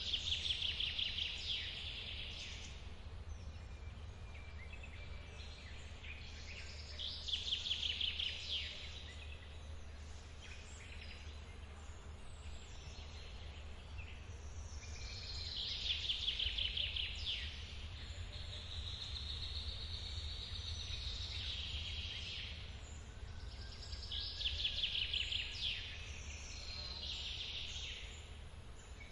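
A songbird singing fast trilled phrases, about five of them, each a second or two long and repeating every few seconds, over a steady low rumble.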